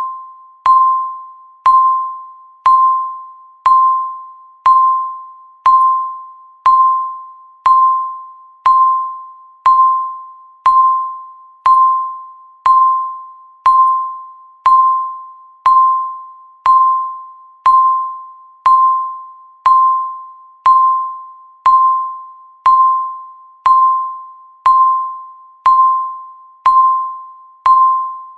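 Countdown timer beeping once a second: each beep is a single tone that starts sharply and fades away before the next.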